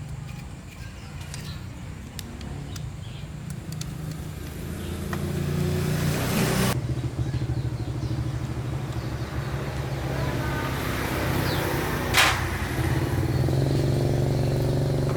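Small petrol engine running steadily, getting louder about five seconds in, with one sharp knock about twelve seconds in.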